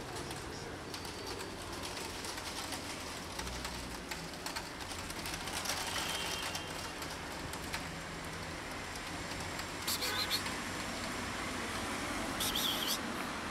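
Outdoor street ambience: a steady background hum with short bird calls, two of them a little louder near the end.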